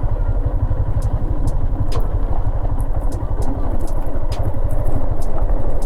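Motorcycle engine running with a heavy, fast-pulsing low rumble, and short sharp ticks about once or twice a second.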